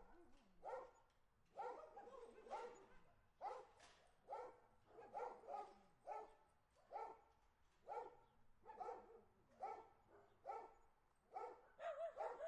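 A dog barking over and over, about once a second, with a quicker run of barks near the end.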